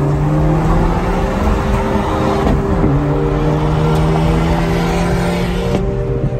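Honda Civic engine heard from inside the cabin, pulling under acceleration with its pitch rising, dropping sharply as it shifts up about three seconds in, then climbing again.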